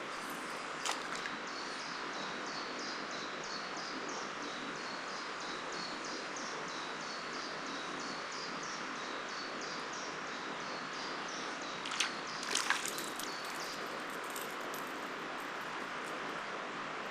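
Steady rush of a forest river's rapids, with a small bird repeating a short high note about twice a second until about twelve seconds in. A few sharp clicks sound near the start and around twelve to thirteen seconds.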